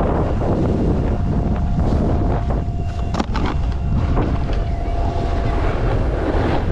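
Wind buffeting the microphone as a steady low rumble, with a faint steady tone underneath for most of it and a sharp click about three seconds in.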